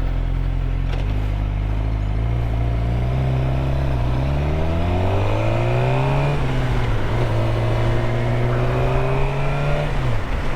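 Suzuki GSX-R 600 inline-four engine running low and steady, then climbing in pitch as it accelerates from about three seconds in, and holding a steady speed later, with a brief dip near the end.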